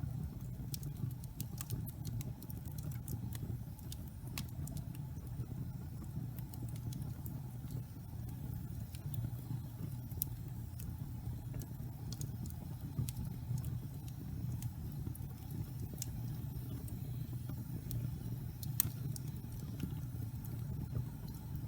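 Wood logs burning in a fireplace: a steady low rumble of the fire with frequent, irregular crackles and pops.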